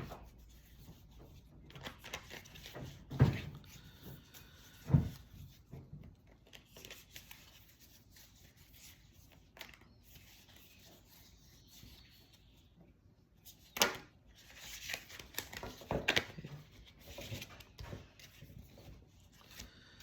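Tarot cards being shuffled and handled, with intermittent papery rustling and a few sharp knocks, the loudest about three and five seconds in and again near fourteen seconds.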